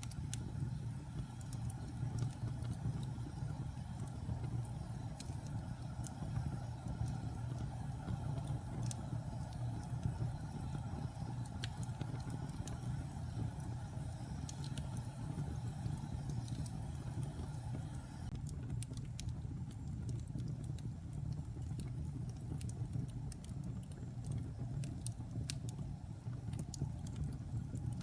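Wood fire burning in a fireplace: a steady low rumble of flames with scattered small crackles and pops, which come more often in the last third.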